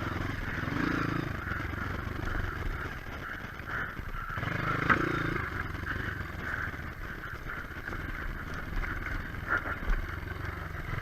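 Single-cylinder trail motorcycle engine running while riding, with a few knocks near the end.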